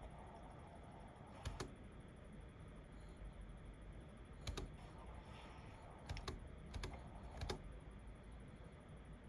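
A few scattered keystrokes on a computer keyboard, several in quick pairs, over a faint steady room hiss.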